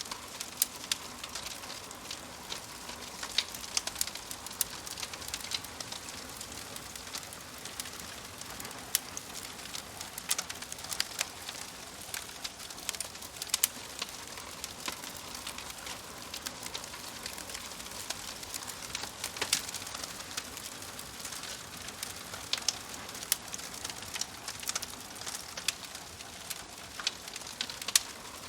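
Wood fire crackling in a fireplace: a steady soft hiss with frequent, irregular sharp pops and snaps.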